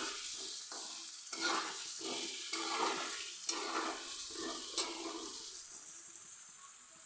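Potato pieces sizzling in hot oil on a full flame, stirred around the pan with about two scraping strokes a second. The stirring stops about five and a half seconds in and the frying sizzle carries on, quieter.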